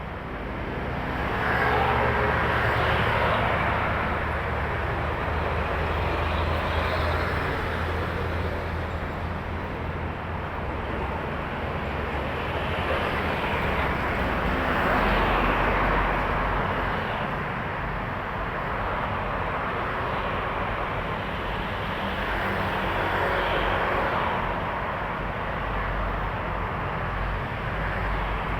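Heavy trucks and other traffic passing on a busy highway: continuous engine and tyre noise with a low engine hum, swelling several times as vehicles go by.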